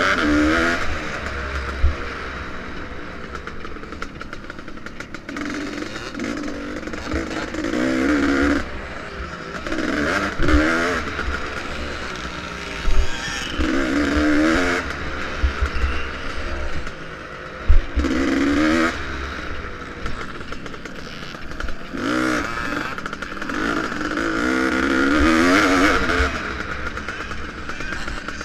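Vintage motocross motorcycle engine revving up and dropping off again and again as it is ridden round the track, with a surge every few seconds. Frequent low thuds and rumble sound underneath.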